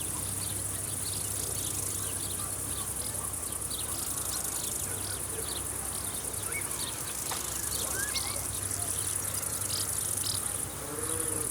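Crickets trilling in a summer field: a steady, high, fast-pulsing chirr that breaks off briefly near the end and resumes, with scattered short chirps and a few faint bird calls over a low steady hum.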